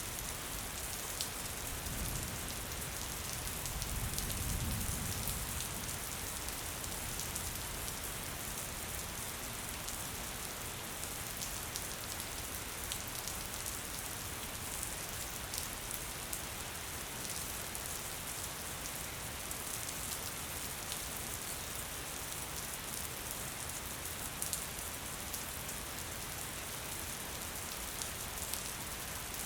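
Gentle rain falling steadily: an even hiss dotted with many small drop ticks. A soft low rumble swells briefly about two seconds in and fades by about five seconds.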